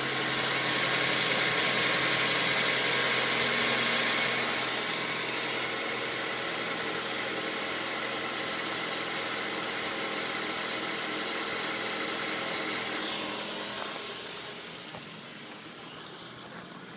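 A 2007 Mazda 3's 2.3-litre four-cylinder engine running steadily at idle, a little louder for the first few seconds and growing fainter near the end.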